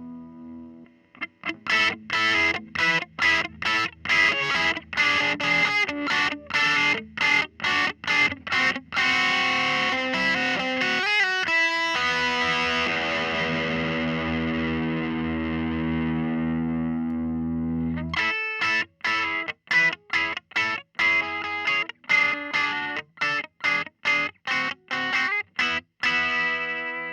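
Electric guitar played through a Dr. Z Maz 18 NR, an 18-watt 2x10 tube combo amp. Short choppy chord stabs, about two a second, give way to a long ringing chord about halfway through. The stabs then return, and a last chord rings out at the end.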